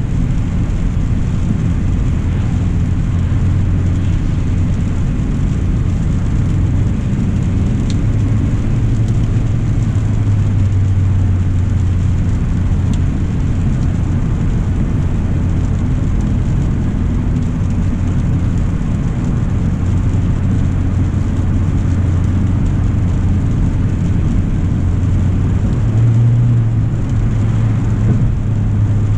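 2025 Hyundai Elantra SEL driving steadily: a low drone of its 2.0-litre four-cylinder engine and road noise under an even hiss of tyres on a wet road. The drone steps up a little in pitch about 26 seconds in.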